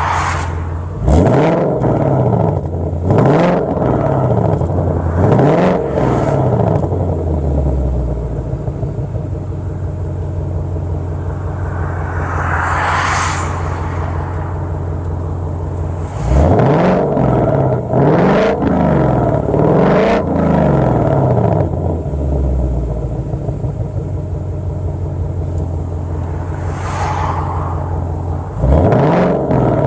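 Car exhaust fitted with a 3D printed Z pipe mid pipe and 55 cm AdrenalinR resonators: the engine idles steadily, then is given three quick throttle blips, each rising and falling back to idle. It settles, gets another set of three blips, and starts a third set near the end. A softer hiss rises and fades between the sets.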